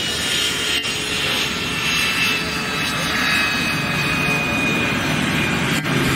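Jet engines of L-39 Albatros jet trainers flying in formation: a steady rushing noise with a faint high whine that slowly falls in pitch.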